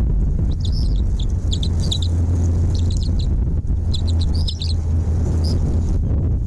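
Small birds chirping in short clusters of high notes, several times over, above a loud steady low rumble.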